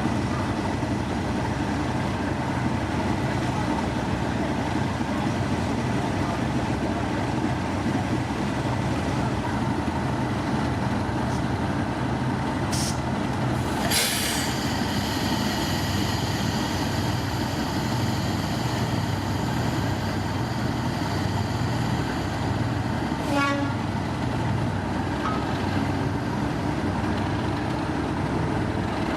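Train running with a steady, loud rumble. About halfway through, a sharp crack is followed by a high ringing that fades away over several seconds.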